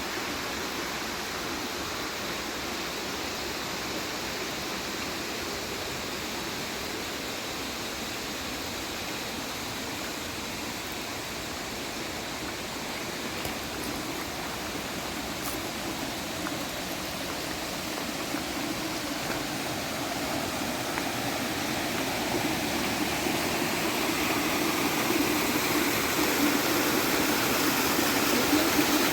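Running water of a stream: a steady rush that grows louder over the last ten seconds or so.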